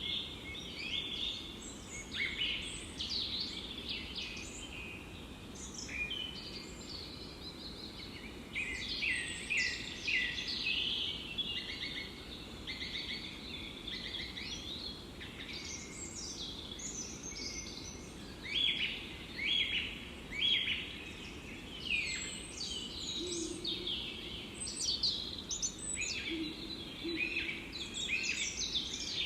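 Forest songbirds chirping and singing, many short overlapping calls, over a steady low background rush.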